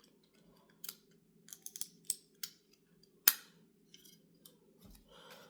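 Scattered light clicks and clinks of small distributor parts and bolts being handled, with one sharp, loud click a little past three seconds in, over a faint steady low hum.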